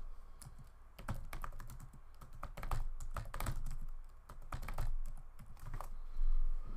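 Computer keyboard typing: irregular runs of key clicks, several keystrokes a second.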